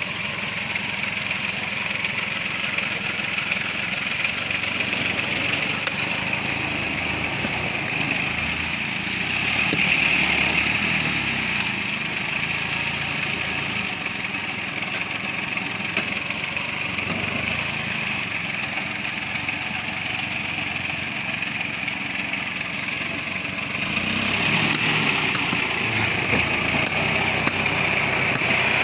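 Toyota Land Cruiser hardtop engine running steadily as the vehicle drives, getting louder about ten seconds in and again near the end.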